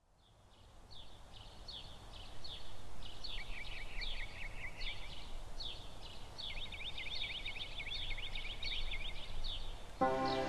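Birds chirping over faint outdoor background noise: repeated short, falling chirps, with a quick rapid run of them from about six to nine and a half seconds in. The sound fades in over the first couple of seconds, and music comes in just before the end.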